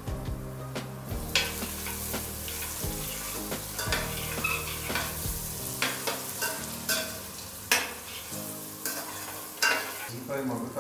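Chopped onions and chillies sizzling in hot oil in a stainless steel kadai, stirred with a steel spoon that scrapes and clinks against the pan. The sizzling picks up about a second in, and the spoon strikes come irregularly throughout.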